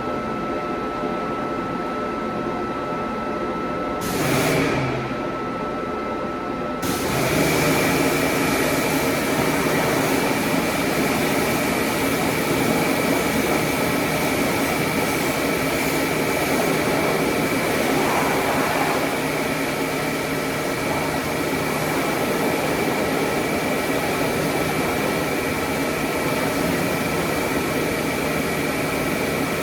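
Car wash machinery running: a steady hum with a thin whine, then about seven seconds in a loud, steady rushing noise with a high whine starts up and keeps going.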